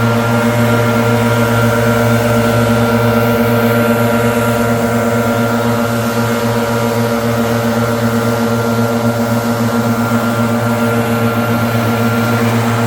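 Leaf blower running steadily at a constant speed: a loud, even engine tone over the rush of air.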